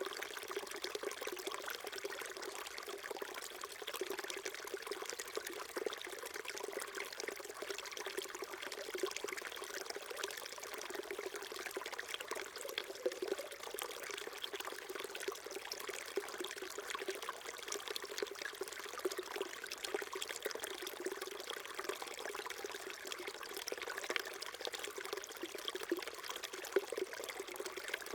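A small shallow stream flowing steadily over rocks: an even, continuous trickling and babbling.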